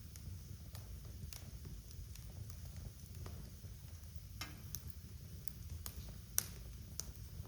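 Wood fire burning in a fireplace: a steady low rumble of the flames with irregular crackles and pops, the sharpest pop a little past the middle.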